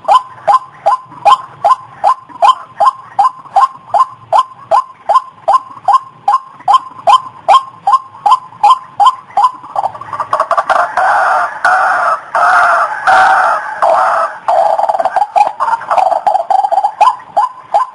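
White-breasted waterhen (ruak-ruak) lure call: a fast, even series of short notes, about three a second. About ten seconds in it changes to a denser, harsher run of overlapping calls for several seconds, and the even series returns near the end.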